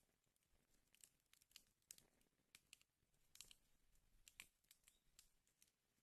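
Wood fire in a fireplace crackling faintly, with irregular small pops and snaps, a few louder ones about two seconds in and again past the middle.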